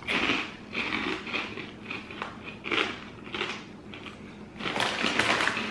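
Crunchy fried pork cracklings being bitten and chewed: a run of irregular crisp crunches, loudest near the end.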